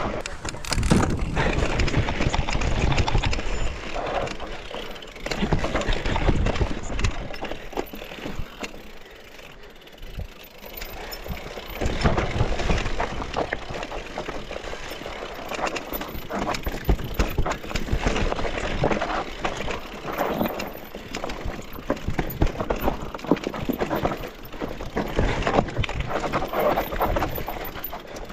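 Mountain bike riding down a rough dirt trail: tyres on dirt, chain and frame rattling over bumps, with wind rumbling on the microphone. It eases off briefly around a third of the way in, then picks up again.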